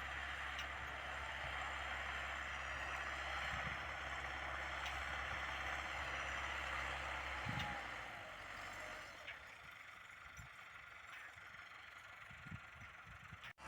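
Massey Ferguson 385 four-cylinder diesel tractor pulling an offset disc harrow, its engine running with a steady drone under a broad hiss. About eight seconds in the engine note drops away and the sound gets quieter.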